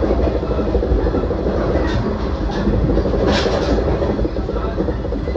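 JR Central Shinano limited express, a 383 series electric multiple unit, running along the line: a steady rumble of wheels on rail with a clickety-clack of rail joints. A brief higher rushing noise comes about three seconds in.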